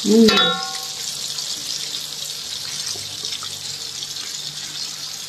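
Pieces of pekasam (fermented fish) frying in hot oil in a wok, a steady sizzle.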